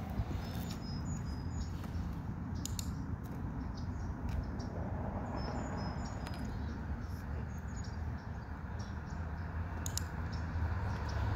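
Small birds chirping in short, high notes over a steady low outdoor rumble, with a few light clicks.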